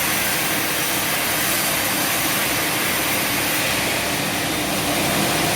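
Sawmill machinery running steadily: a loud, even hiss with a faint hum beneath it.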